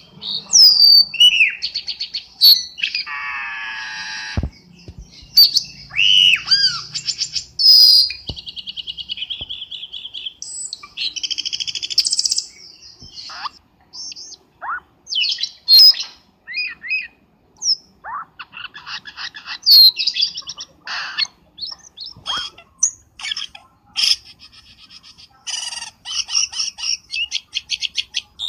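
Cucak keling calls played as a bird-trapping lure: a busy, varied run of whistles that slide up and down, harsh squawks and fast chattering note series, with short gaps between phrases.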